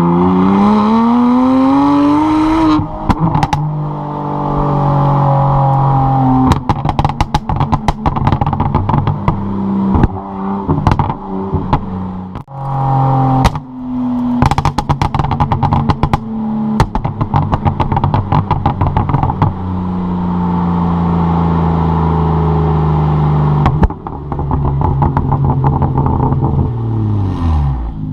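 BMW 135i's N54 twin-turbo straight-six, fitted with a straight-through Berk race axleback, Berk midpipes and AR Design downpipes, being revved hard. In the first few seconds the revs climb, then drop, and the overrun brings many sharp exhaust pops and crackles. Later the revs are held steady for a few seconds, then fall away near the end.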